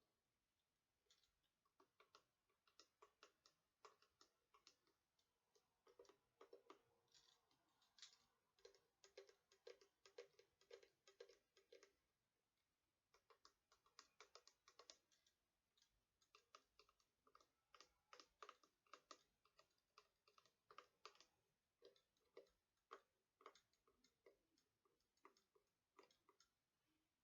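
Quick runs of tapping on a decorated box-shaped purse, sharp clicks several a second with brief pauses between runs, with the purse rattling.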